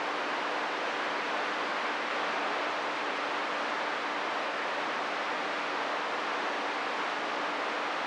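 CB radio receiver hiss on an open channel between transmissions: a steady, even static with a faint low hum running under it.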